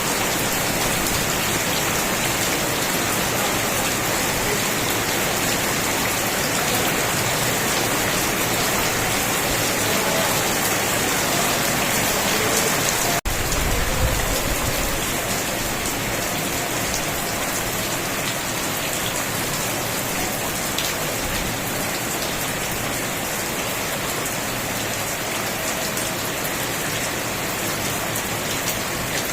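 Steady rain falling, a dense even hiss of drops. About thirteen seconds in it cuts out for an instant, followed by a brief low rumble, then carries on slightly quieter.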